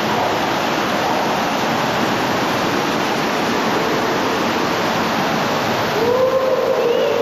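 Cave waterfall fed by storm runoff: a loud, steady rush of falling water.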